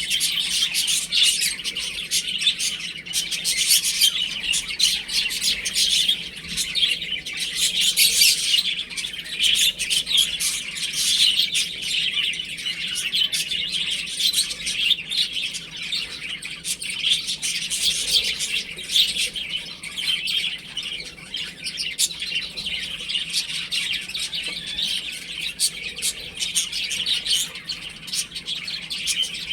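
A brood of baby chicks peeping, many high chirps overlapping without a break.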